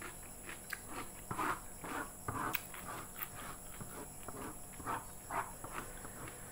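A person chewing a fried broccoli fritter, with short irregular mouth and chewing noises coming in bursts.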